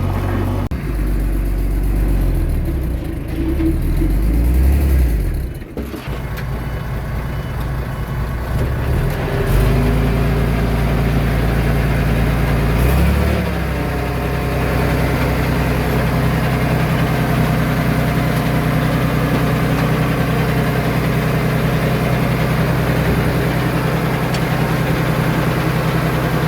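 Diesel engine of a Komatsu D21A bulldozer working, its pitch and load shifting over the first half with a brief dip about six seconds in, then running steadily.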